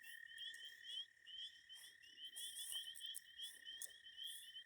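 Faint night chorus of frogs and toads: many short rising chirps repeating over a steady, unbroken high trill.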